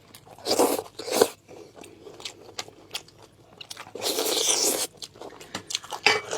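Close-miked eating sounds of braised pork knuckle: wet biting and chewing in short bursts, with a longer noisy burst just after four seconds in.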